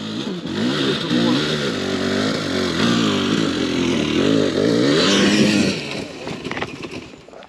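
2023 Sherco enduro dirt bike engine revving up and down repeatedly under throttle while being ridden, with wind hiss; the engine note falls away about six seconds in.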